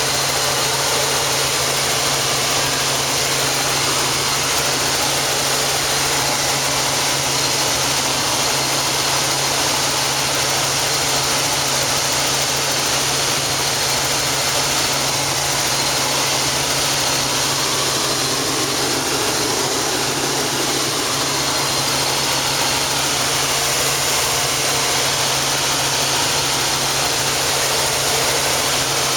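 Helicopter engine and rotor noise heard from inside the cabin: a loud, steady drone with a constant low hum.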